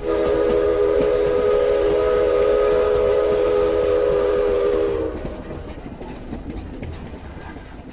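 Train sound effect: a train whistle sounding a chord of several notes, held for about five seconds and then fading, over a steady rolling rumble that carries on after the whistle stops.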